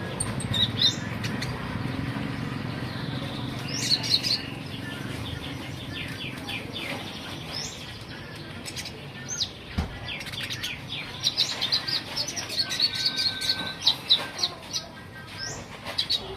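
A kolibri ninja (Van Hasselt's sunbird) singing in a cage: quick, high, thin chirps and short rising notes. They come in bursts that grow busier in the second half. A low rumble in the background fades out over the first few seconds.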